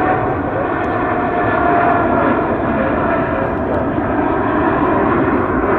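Jet airliner's engines at takeoff power: a loud, steady roar with a whining tone that slowly drops in pitch.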